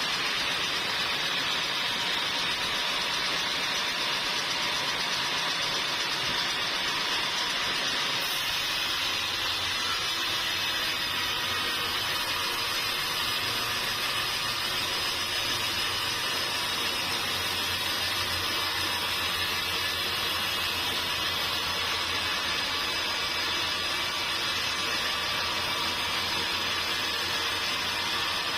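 Sawmill machinery running steadily with a loud, even noise. A low hum joins it about eight seconds in and holds.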